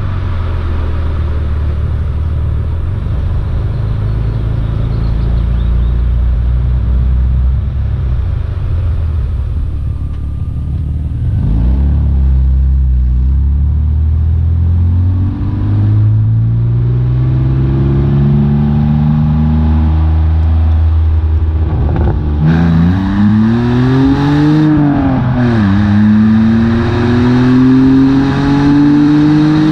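BMW E46 330Ci's inline-six engine and exhaust, running steadily for about ten seconds and then pulling harder, its pitch climbing. In the second half it revs up hard twice, the pitch dropping back after each climb as at a gear change.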